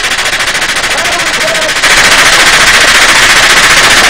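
FN M249 SAW 5.56 mm light machine gun firing one long unbroken burst of full-automatic fire, getting louder about two seconds in.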